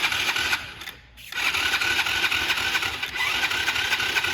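Small gasoline engine being cranked over by an electric starter, in two attempts with a short pause about a second in, without catching.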